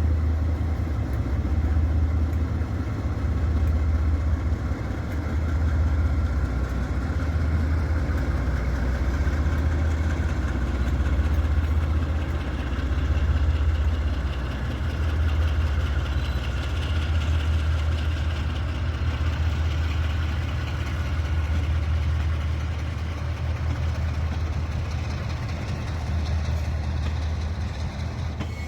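Diesel locomotive engine running steadily at low revs: a deep hum that swells and fades about every second and a half, easing off slightly near the end.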